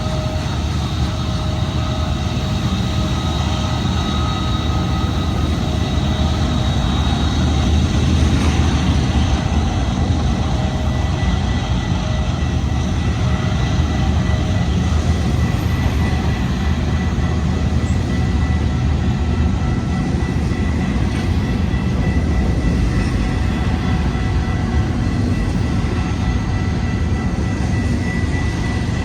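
Intermodal freight train cars rolling past: a loud, steady rumble of wheels on rail, with faint, steady high-pitched ringing tones over it.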